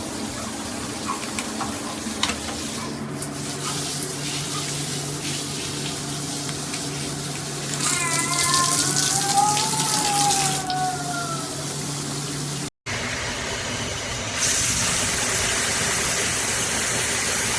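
Water spraying from a shower head, a steady hiss. About eight seconds in the spray gets louder for a few seconds and a tone rises and falls over it. After a brief break near the middle, the spray is louder and brighter.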